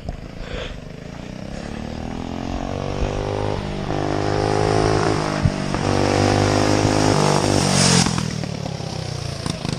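Briggs & Stratton Animal single-cylinder four-stroke kart engine revving up under acceleration, its pitch climbing twice, then holding high and getting louder before dropping away about eight seconds in. It has a mean sound.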